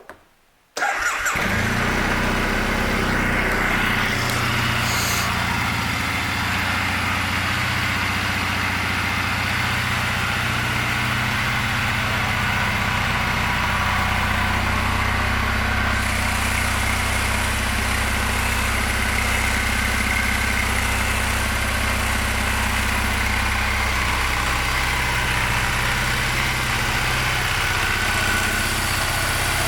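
2013 Triumph Bonneville's air-cooled parallel-twin engine starting about a second in, then idling steadily; the idle settles a little lower near the end.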